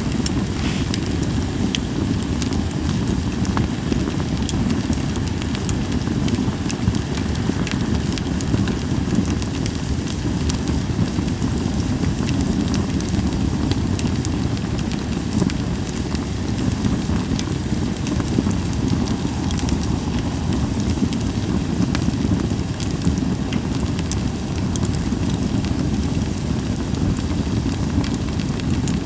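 Campfire of Japanese white pine logs burning, with frequent small pops and crackles over a steady low rumble and little hissing.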